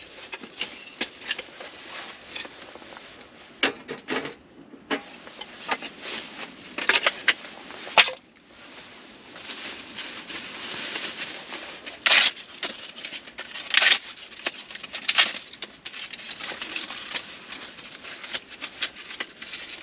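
Dry birch bark and firewood being handled and torn: irregular crackling and tearing rustles, with a few louder sharp snaps.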